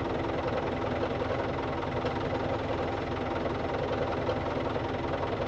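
Old farm tractor's engine running steadily at a constant speed.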